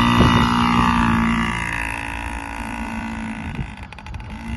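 Yamaha PW50's small two-stroke engine idling at a steady pitch, loudest in the first second and a half and fading after, with a few light clicks near the end. It is a sound the owner doesn't love.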